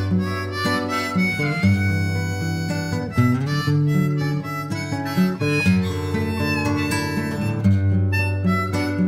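Instrumental interlude of a worship song: a sustained, reedy lead melody over plucked guitar and a steady bass line, with no singing.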